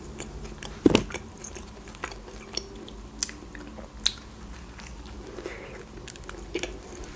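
Close-miked biting and chewing of a McChicken burger: soft, wet mouth sounds with scattered sharp clicks, the loudest about a second in.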